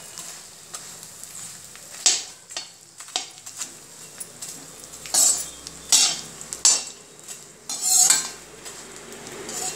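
Puffed edible gum (gond) sizzling gently as it fries in ghee in a metal kadhai. A perforated metal skimmer scrapes across the pan in several strokes, the loudest about two seconds in and then four more between five and eight seconds.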